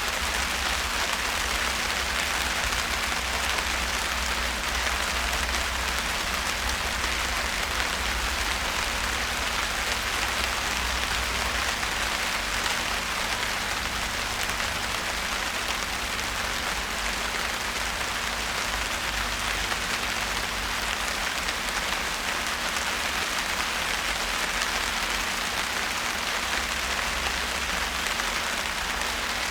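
Steady rain falling, drops pattering on surfaces, with a low rumble underneath.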